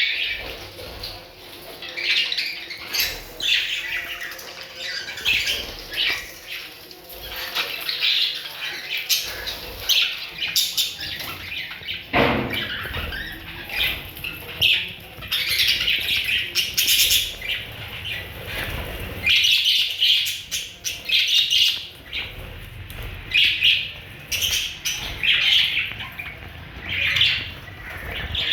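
Parrots calling with many short, repeated squawks and chirps, with scattered sharp clicks among them.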